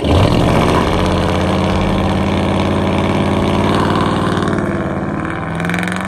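Loud truck engine and exhaust running under throttle, a steady deep note that eases off and fades over the last second or so as the truck pulls away.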